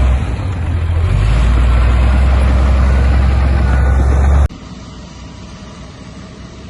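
Heavy diesel engine of earthmoving machinery running loud and steady, its note shifting briefly about a second in. About four and a half seconds in it cuts off abruptly to a much quieter, lower engine rumble.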